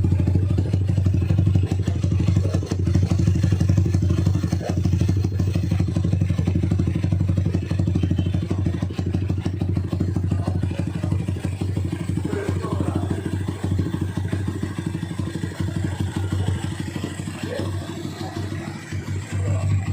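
Honda Mega Pro motorcycle's single-cylinder engine idling steadily through an aftermarket CTS capsule exhaust, with a deep, solid bass note.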